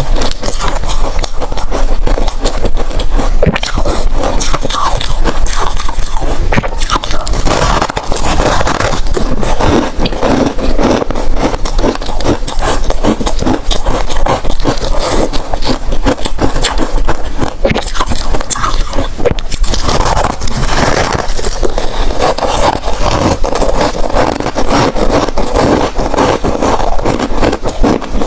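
Ice being chewed and crunched between the teeth close to the microphone: a continuous run of loud, crackling crunches with no pauses.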